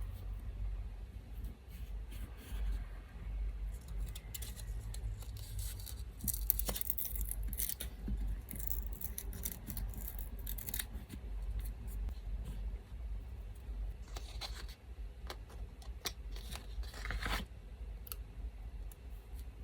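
Scissors snipping through paper in two runs of quick cuts, in the middle and near the end, with paper being handled in between. An electric fan runs underneath as a steady low hum.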